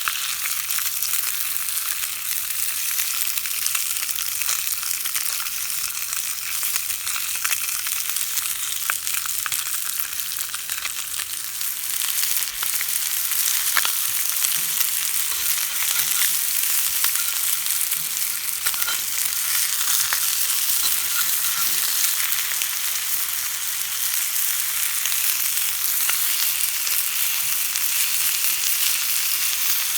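Food sizzling steadily in hot fat on a grill or pan, with scattered small pops and crackles.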